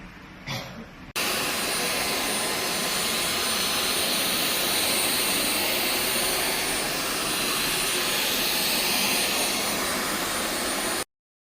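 A click, then a Dyson V12s cordless stick vacuum running: a loud, steady rushing of air with a faint high whine. It cuts off abruptly near the end.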